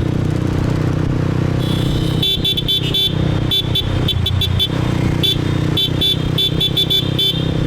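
Motorbike riding in city traffic: a steady engine and road hum, and from about two seconds in a horn sounds in a long string of short, quick honks.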